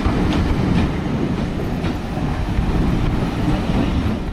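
Heritage railway train running: a steady low rumble with a few faint clicks.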